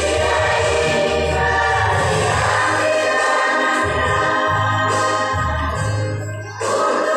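Choir singing in sustained chords over steady low bass notes. The singing drops briefly about six and a half seconds in, then comes back in.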